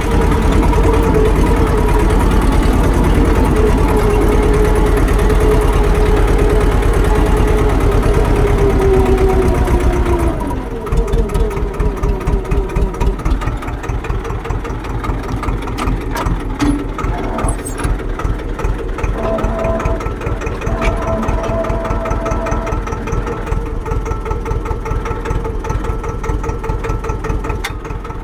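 Tractor engine running steadily, then throttled down about ten seconds in, its pitch falling and its sound dropping to a quieter, evenly pulsing idle.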